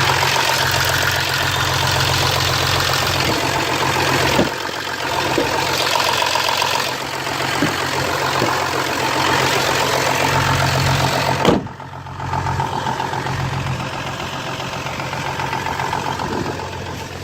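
Audi 3.0 TDI V6 diesel engine idling steadily, without the tapping that a broken copper injector seal had caused, now that the injector seals are renewed. About two-thirds of the way through there is a single thump, after which the engine sounds quieter and more muffled.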